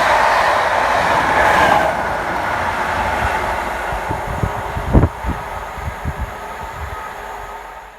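Network Rail test train running through the station, its noise dying away as it moves off. A few seconds in comes a string of sharp knocks, the loudest about five seconds in.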